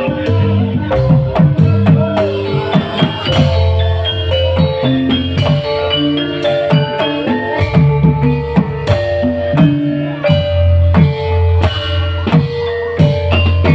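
Live band music: a steady drum beat under held melodic notes from keyboard-type instruments.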